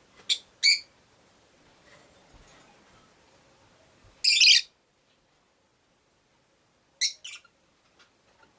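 Rosy-faced lovebirds calling in short, high-pitched chirps: two quick calls at the start, a longer, louder call about four seconds in, and two more quick calls near the end.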